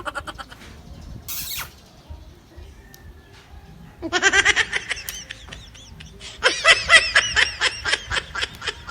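A person laughing in quick, rhythmic bursts, in two bouts: one about four seconds in and a louder one from about six and a half seconds.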